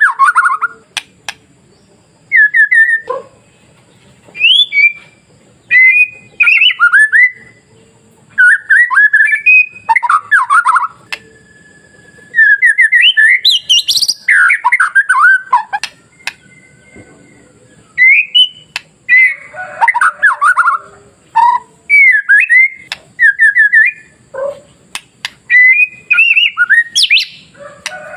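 White-rumped shama (murai batu) singing: loud, varied phrases of clear whistles and quick series of falling notes, coming in short bursts with brief pauses between them.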